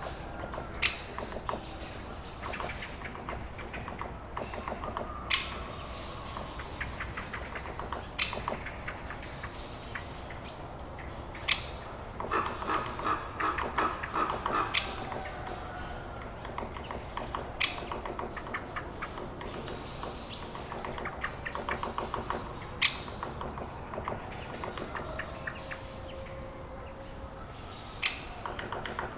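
A chorus of birds chirping and calling, with a loud sharp chirp every few seconds and a fast trill about halfway through.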